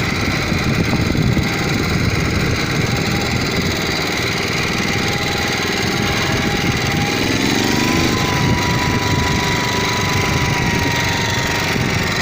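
Motor Sich walk-behind tractor's small engine running steadily while the machine is driven, with a dense low chugging throughout.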